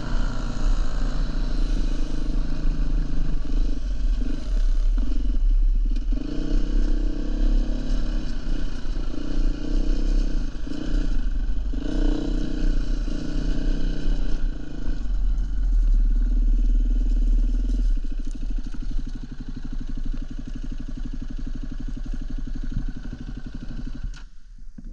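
Dirt bike engine running on a trail with the throttle opening and closing, easing off to a lower, steadier note about three-quarters of the way through, then dropping away suddenly near the end.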